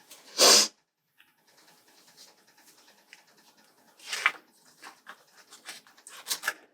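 A short, loud sneeze about half a second in, followed by faint rustling and a few quieter sharp sniffs or snorts near the middle and end.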